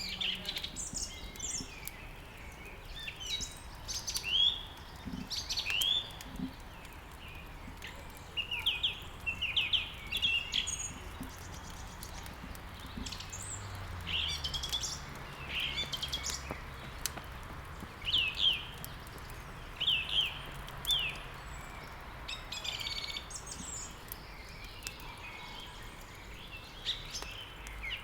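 Small songbirds chirping and singing in quick, repeated short phrases, over faint crackling of a wood fire.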